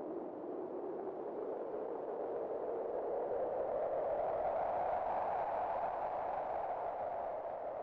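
Wind howling in a hollow, pitched band that rises a little in pitch and swells to a peak midway, then eases off slightly.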